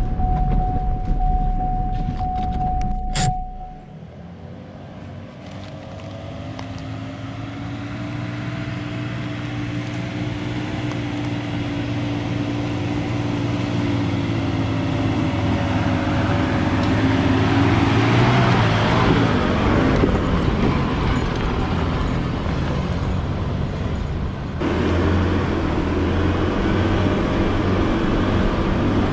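4x4 engine running under load, its pitch rising slowly and the sound growing louder over about fifteen seconds. Before it, a steady high tone ends in a sharp click about three seconds in.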